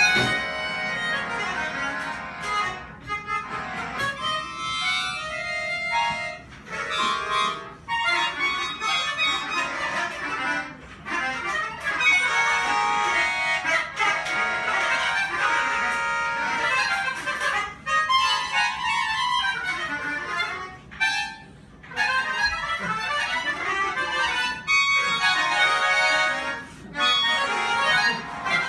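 Live music on free-reed instruments, accordion and harmonica-like reeds, playing a slow melody over held chords, with brief dips between phrases.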